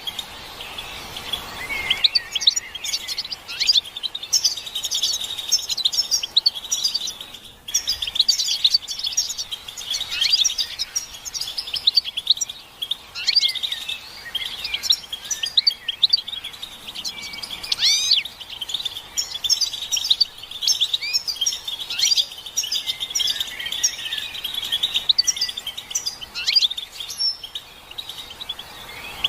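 A group of European goldfinches calling and twittering: a dense, unbroken run of quick, high chirps and short trills, with a brief pause about seven and a half seconds in. These are the excited mating and readiness calls used to stir a male goldfinch into song.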